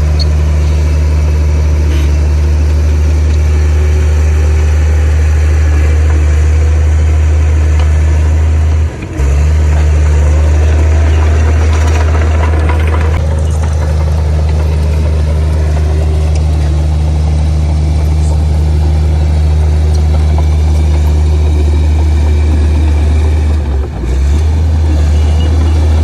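Komatsu D58P bulldozer's diesel engine running steadily under load, loud and low. A whine rises in pitch partway through, and the level dips briefly twice.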